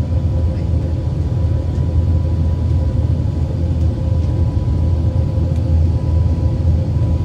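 Cabin noise of an Airbus A380 in flight: a steady low rumble of the engines and airflow, with a faint steady hum on top.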